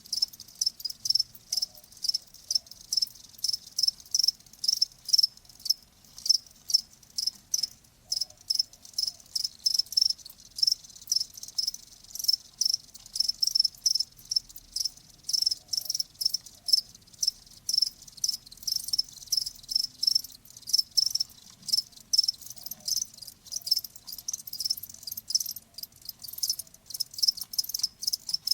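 Crickets chirping: short high-pitched chirps repeated a few times a second, going on without a break.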